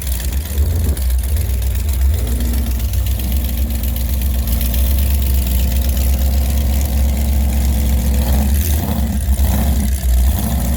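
V-drive power boat's inboard engine idling on the water, loud and steady, with a brief change in engine note near the end.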